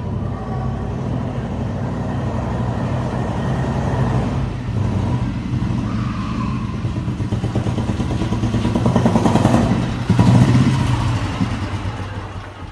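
Royal Enfield Bullet 350's old single-cylinder cast-iron pre-unit engine running with its characteristic thump. The revs are raised around nine to ten seconds in, then the sound eases off and fades near the end.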